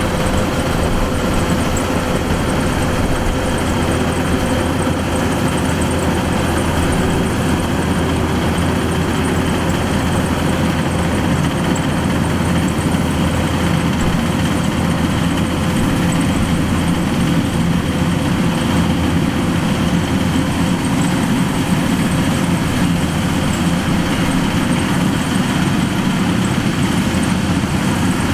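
Kubota DC-105X combine harvester's diesel engine running steadily, with a constant low rumble and a steady hum from the machinery.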